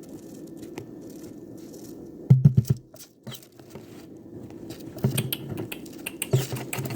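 Rustling and scratching noises, with a short cluster of loud knocks about two and a half seconds in and softer knocks near the end.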